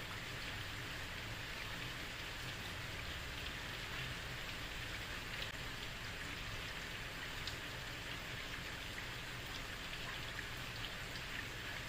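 Heavy rain falling on a street: a steady hiss with scattered sharp drop ticks and a low rumble underneath.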